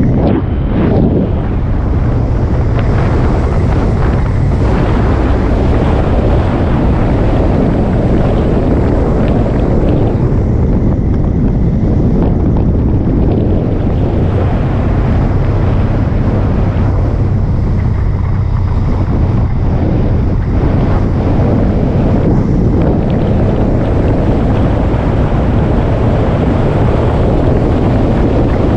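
Motorcycle engine running at a steady pace while riding, with heavy wind rushing over the microphone.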